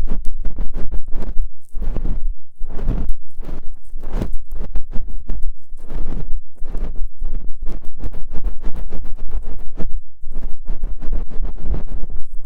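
ASMR ear cleaning: an ear-cleaning tool scraping and rubbing right against a microphone's ear, a rapid, irregular run of close, loud scratching strokes over a low rumble.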